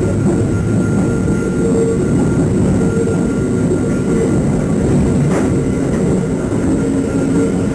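Hakone Tozan Railway train running along the track: a steady rumble with a thin steady whine, and a single short knock about five seconds in.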